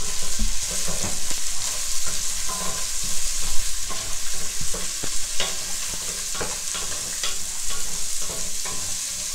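Chopped onions and browned pork sizzling in a nonstick pot, sautéed in the pork's own rendered fat with no added oil, while a wooden spatula stirs them with irregular scrapes and knocks against the pot.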